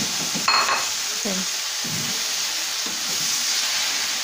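Tofu and tempeh cubes sizzling steadily as they fry in a pan of sautéed spice paste, while being stirred and added by hand. About half a second in there is one short, sharp ringing clink.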